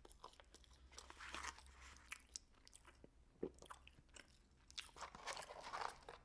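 Quiet close-up chewing and crunching of Chick-fil-A fast food, with small mouth clicks. It comes in two busier stretches, about a second in and near the end.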